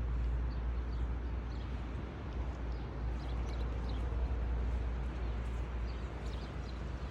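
Outdoor ambience from a terrace: a steady low rumble and hiss, with faint short chirps of small birds scattered through it.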